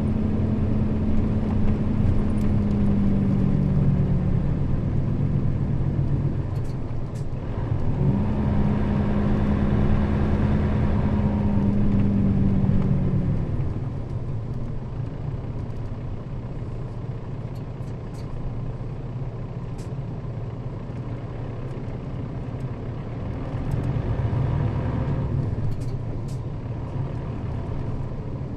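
Nissan Diesel KL-RA552RBN bus heard from inside the cabin while under way: the diesel engine drones steadily under power, breaks off about seven seconds in, and pulls again. About thirteen seconds in the engine note drops away, leaving a quieter low rumble of the moving bus.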